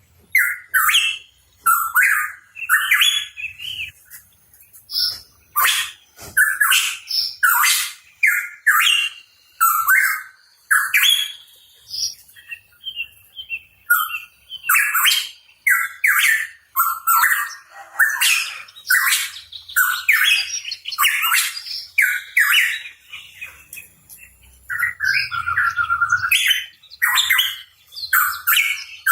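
Pitohui calling in a quick, nearly continuous series of short chirps and harsh, scratchy notes, with a brief lull about halfway through.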